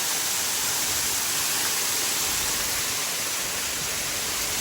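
Waterfall rushing close by, a steady loud hiss of falling and splashing water.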